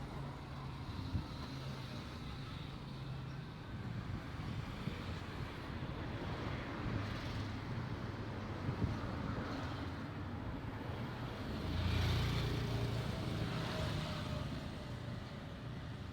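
Road traffic: motor vehicles running and passing, a steady low hum, with one louder pass about twelve seconds in.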